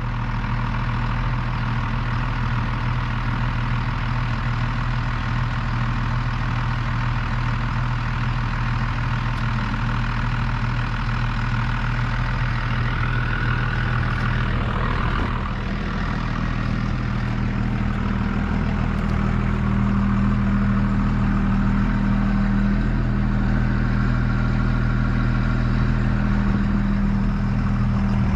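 Truck engine idling steadily, growing a little louder about two-thirds of the way through.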